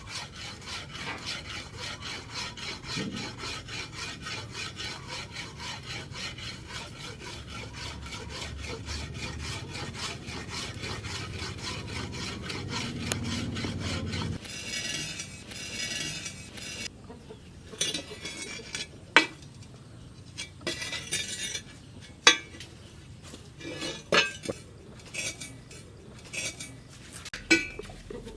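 Hand tools working steel: rhythmic rasping strokes, about three a second, for the first half, then after a sudden change scattered sharp metallic clinks and taps.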